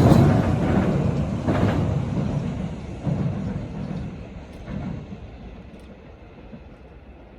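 Kintetsu electric train running past and fading away, with a few wheel knocks over the rail joints as it draws off.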